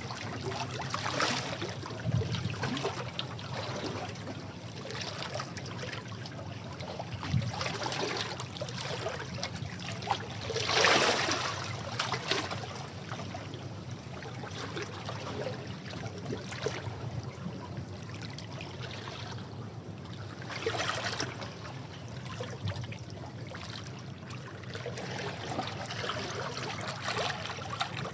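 Sea waves washing against rocks: a continuous splashing and trickling wash that swells in irregular surges, with the biggest splash near the middle.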